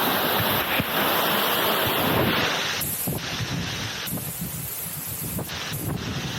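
Rushing water of a waterfall, a steady dense noise that drops and shifts in level abruptly several times from about two and a half seconds in.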